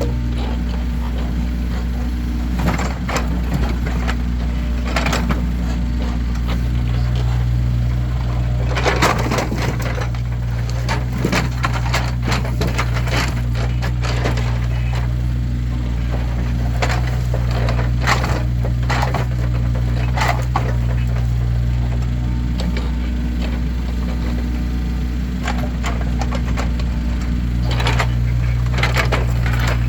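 Split firewood logs being stacked, with irregular wooden knocks and clatters as pieces land on one another. A steady low hum runs underneath.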